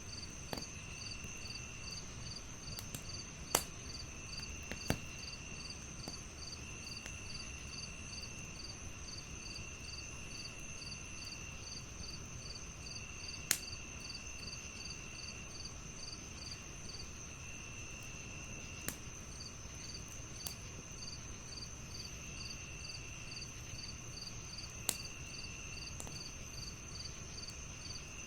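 Several crickets chirping together: one high continuous trill, a quick pulsed chirp about three times a second, and a lower trill in bursts of about a second. A few sharp pops from a crackling wood fire stand out, the loudest about three and a half and thirteen and a half seconds in.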